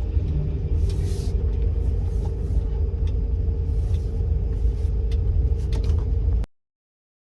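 Car running with a steady low rumble and hum, and intermittent hissing swishes over it. The sound cuts off abruptly about six and a half seconds in.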